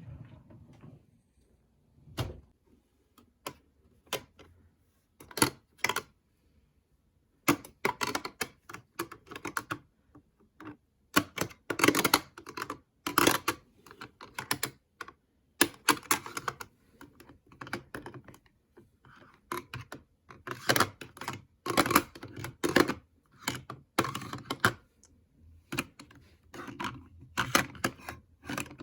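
Cosmetic cases and containers being handled, clicked and tapped. The sharp clicks come in quick runs, sparse at first and much denser from about seven seconds in.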